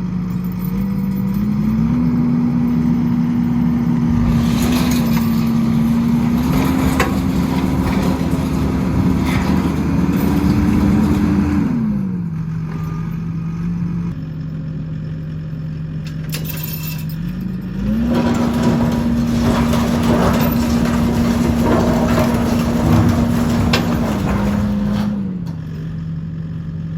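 Skid steer engine throttled up from idle to a steady working speed twice, dropping back to idle in between and again near the end, with a broad rattle and hiss from the machine while it is at speed.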